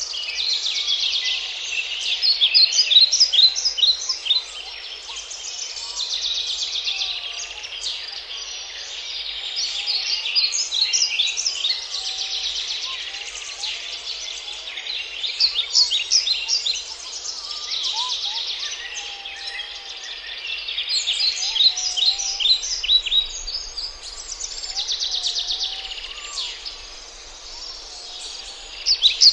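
Birds singing, with phrases of rapid high chirps and trills that swell and fade every few seconds, and faint lower whistled notes underneath.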